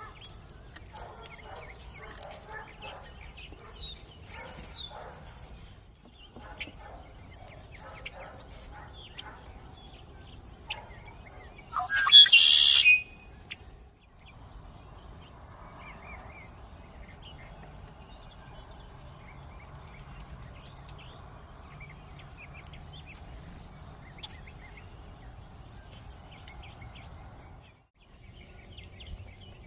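Birds chirping and calling at a feeder: short, faint calls scattered throughout, and one much louder call about a second long near the middle.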